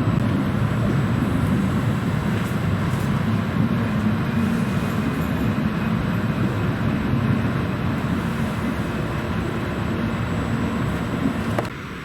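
Regional passenger train running, a steady low rumble with broad road noise of the wheels and carriage. The level drops abruptly near the end.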